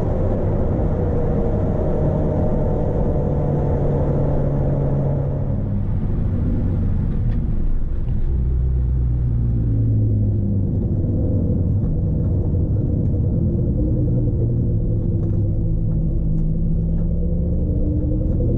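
Proton Wira's 1.6-litre 4G92P four-cylinder engine running under way with road rumble, its engine note shifting up and down in pitch a few times as the revs change.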